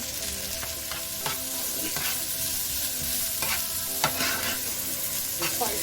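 Chopped onions and bell peppers sizzling in hot oil in a pot, stirred with a utensil that knocks and scrapes against the pot several times.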